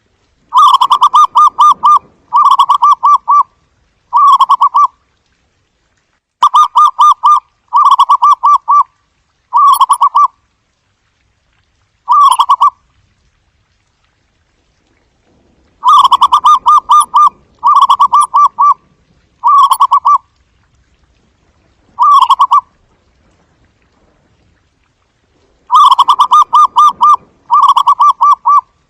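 Zebra dove cooing: quick staccato trilled coos, each phrase a rapid run of pulses about a second long. The phrases come in groups of three or four, shorter toward the end of each group, with pauses of a few seconds between groups.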